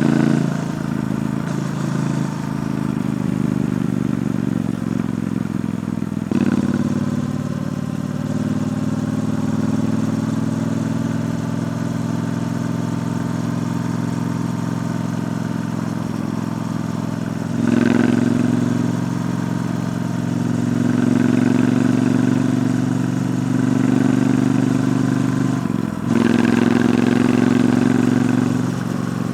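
Triumph Bonneville T120's 1200 cc parallel-twin engine running through its stock exhaust while riding. The engine note falls and rises with the throttle, picking up sharply about 6, 18 and 26 seconds in.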